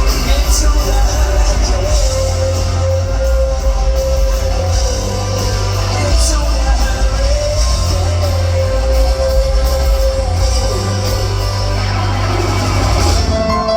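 Live rock band playing loudly: heavy bass and drums under guitars and sung vocals, with a long held note through the middle, as heard from the audience in a large hall.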